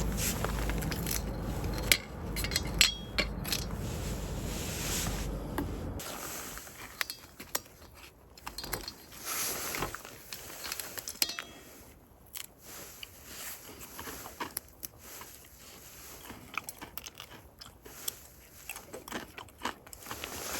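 Camp cookware and utensils being handled: scattered clinks, clicks and scrapes. A low steady rumble underneath stops suddenly about six seconds in.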